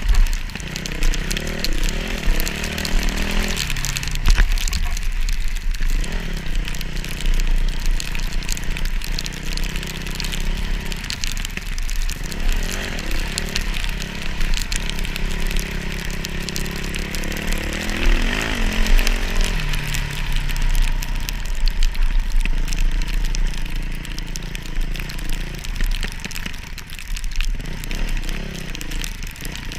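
Dirt bike engines running and revving, the pitch rising and falling again and again, with wind rumbling on the microphone.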